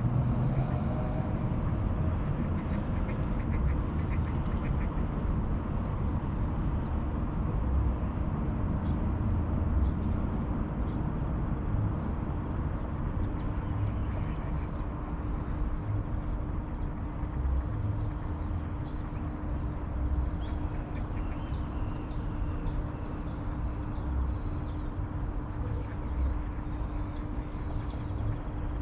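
Riverside ambience in a city: a steady low rumble of distant traffic under a faint constant hum. About two-thirds of the way in, a quick series of short bird calls repeats several times.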